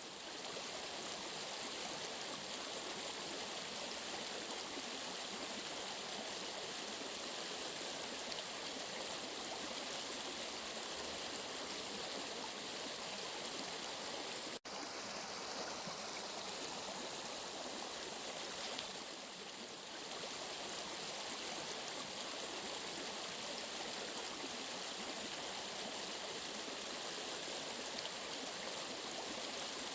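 Steady rushing of flowing water, like a stream, with a momentary break about halfway through.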